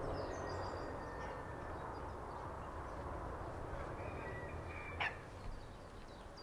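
Birds chirping and calling over a steady low background rumble, with a short sharp call about five seconds in.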